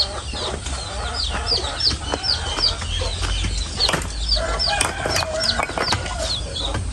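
A bird chirps steadily, short high falling notes two or three a second, over scattered knocks and scrapes of a digging bar and hands working soil and roots.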